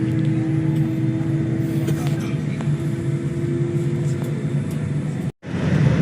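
Steady airliner cabin noise: a low rumble with a steady hum over it. It breaks off for an instant near the end and comes back louder.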